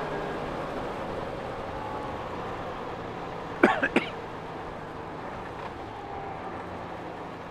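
Honda Gold Wing motorcycle engine running steadily under a hiss of rain and wet-road traffic. Two short, sharp chirps about halfway through are the loudest sound.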